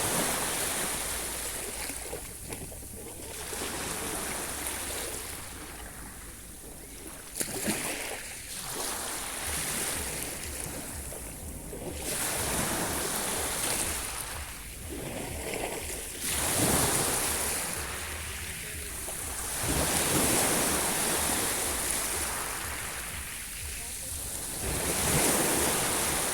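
Sea waves washing in and drawing back, swelling and fading in a slow rise and fall every three to five seconds.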